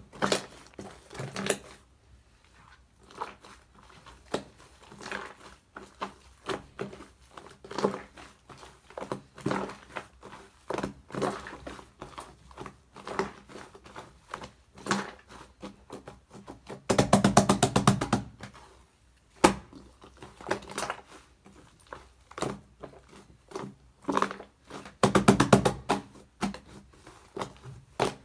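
Shaving-foam slime being squished and pressed by hand, making irregular sticky clicks and pops. Twice in the second half it breaks into a second or so of rapid crackling popping.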